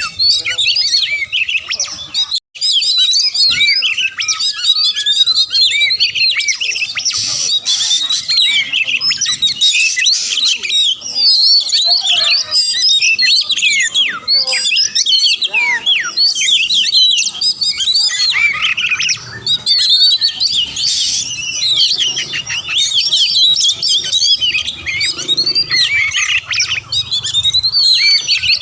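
Oriental magpie-robin (kacer) singing a fast, dense run of quickly changing whistled and chattering phrases without pause, broken only by a very short gap about two and a half seconds in.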